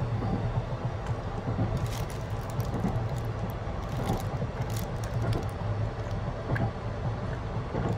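Steady low rumble of the Cassiopeia sleeper train running, heard from inside a compartment, with a few short clicks and rustles scattered through it.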